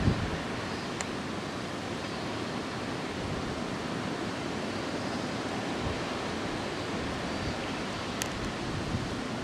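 Steady outdoor rushing noise, with a low buffet of wind on the microphone at the start and a couple of faint short clicks.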